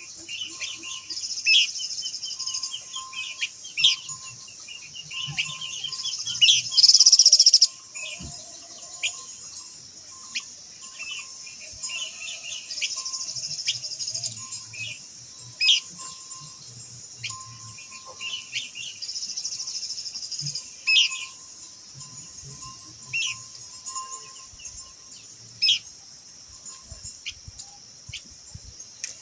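Blue-winged minla singing: a run of short, quick chirps and trills, some sharp single notes standing out. Behind them is a steady high-pitched hiss, and about a quarter of the way in there is a brief loud rush of noise lasting about a second.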